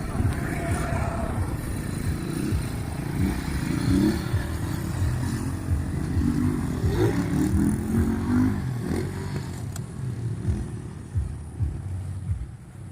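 Motorcycle engine running, its pitch rising and falling with the throttle.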